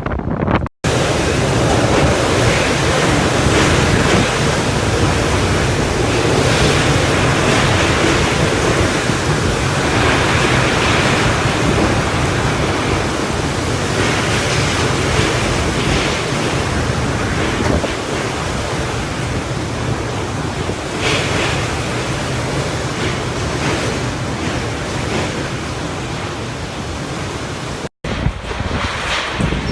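Typhoon storm noise: a loud, continuous rush of strong wind, buffeting the microphone, with surging water mixed in. It cuts out briefly about a second in and again near the end.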